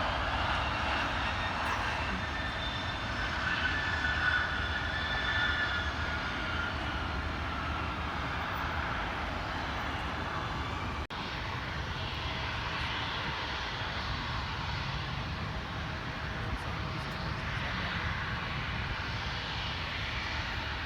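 Jet airliner engines, a high whine over a steady rumble. The whine fades over the first several seconds, and a broad steady rumble carries on after it, broken by a brief dropout about eleven seconds in.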